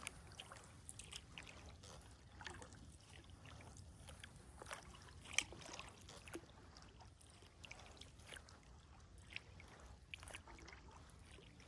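Faint kayak paddling on calm water: scattered small splashes and drips from the paddle, with one sharper knock about five seconds in.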